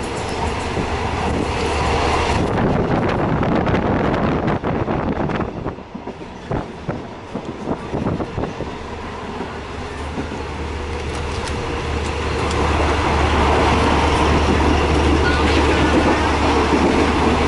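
Passenger train running, heard from inside the carriage with the window open: a steady rumble of wheels on rails with irregular clacks around the middle, growing into a louder, steadier rumble after about twelve seconds.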